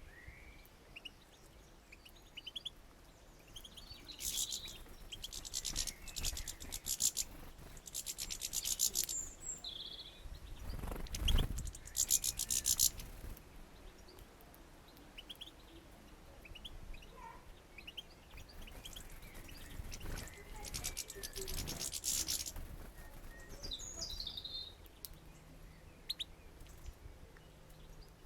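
Small songbirds twittering and chirping in repeated short, rapid bursts, with a single dull thump about eleven seconds in.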